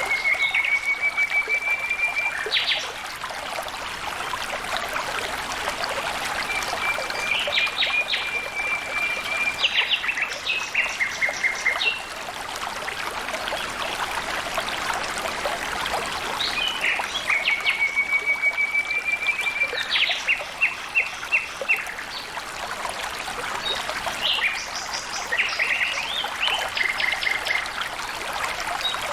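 Water trickling and flowing steadily. A songbird repeats a phrase several times over it: a long, slightly rising whistled note followed by a quick run of short notes.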